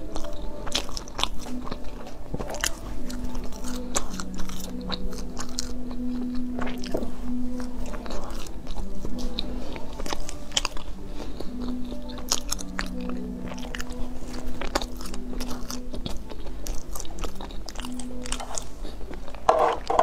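A person biting into and chewing bread close to a clip-on microphone, many small irregular mouth and bite clicks. Soft background music with held notes plays underneath.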